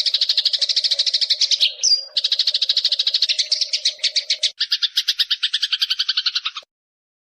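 Eurasian tree sparrows chirping in a fast, continuous chatter of short chirps, several a second. About halfway through the chirps turn lower and buzzier, then they cut off suddenly shortly before the end.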